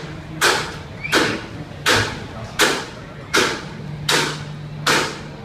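Footsteps of a person walking, a regular thump about every three-quarters of a second, seven in all, over a steady low hum.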